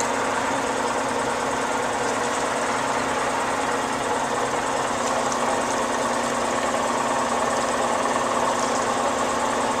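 Steady machinery drone inside a sewer grout truck, an even engine hum with a few steady tones that does not change in level.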